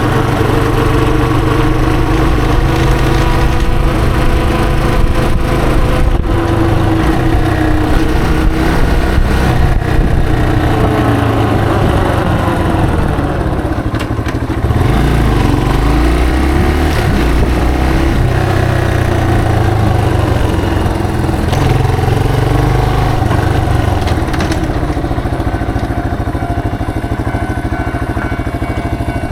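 Yamaha TW225's single-cylinder four-stroke engine running under way, its pitch falling and rising again around the middle as the bike changes speed, and steadier and a little quieter near the end.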